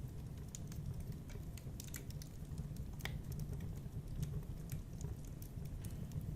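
Wood fire burning in a fireplace: irregular sharp crackles and snaps over a steady low rumble of the flames.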